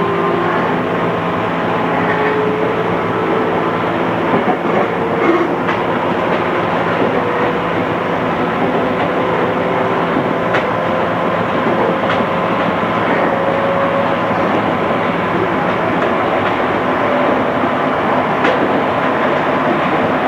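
Running sound inside a JR East 211 series electric multiple unit: a steady rolling rumble with a motor and gear whine that climbs slowly in pitch as the train gains speed. A few faint clicks from the wheels over rail joints come through it.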